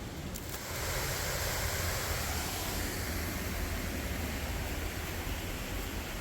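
Waterfall in high flow after heavy rain and snowmelt, a steady rushing of falling water that grows louder about half a second in.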